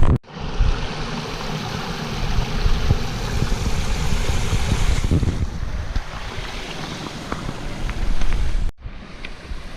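Steady rushing noise with uneven low wind buffeting on the microphone; it breaks off abruptly near the end.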